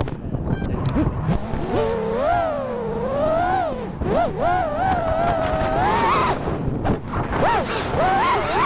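FPV quadcopter's motors and propellers whining. The pitch rises and falls repeatedly as the throttle is worked, with brief drops in level about four and seven seconds in.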